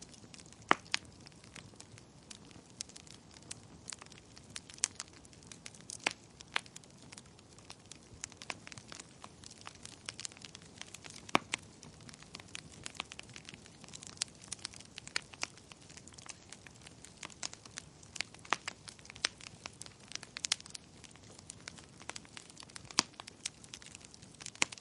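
Wood fire crackling in a fireplace: irregular sharp pops and snaps, several a second at times, over a soft hiss of burning.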